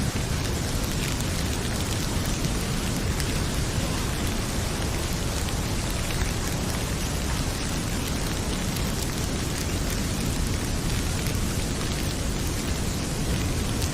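Heavy rain pouring steadily, with faint scattered crackles from a wood fire in a fireplace.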